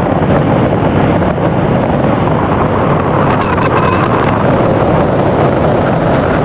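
Steady engine noise mixed with wind buffeting the microphone.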